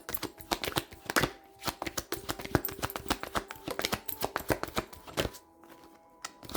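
Tarot cards being shuffled by hand: a rapid run of crisp card clicks and slaps, pausing briefly about five and a half seconds in.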